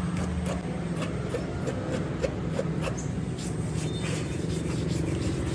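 A steady mechanical hum, like a running motor, with a regular clicking a few times a second.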